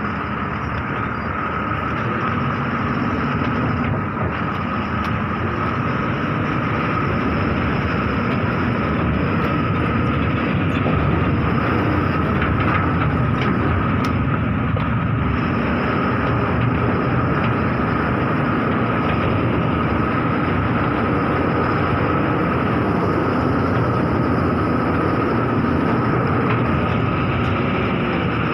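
Heavy diesel machinery running steadily, a continuous low rumble with a constant high whine over it.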